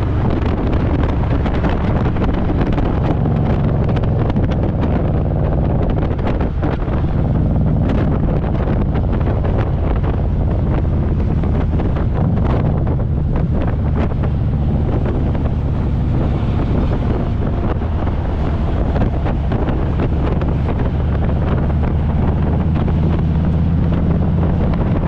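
Harley-Davidson Road Glide's V-twin engine running steadily while the motorcycle is ridden, with heavy wind buffeting on the microphone.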